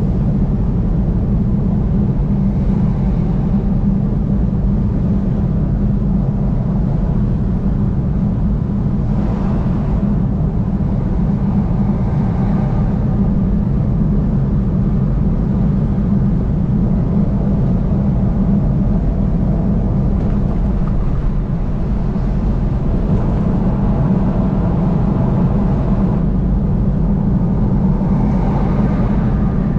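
Steady road noise of a vehicle driving at highway speed: a constant low rumble of tyres and engine, with a few faint swells of higher noise coming and going.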